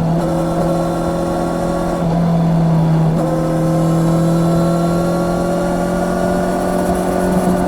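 Honda CB650R's inline-four engine pulling under load. It changes note briefly at gear shifts about two and three seconds in, then its pitch climbs slowly as the bike accelerates.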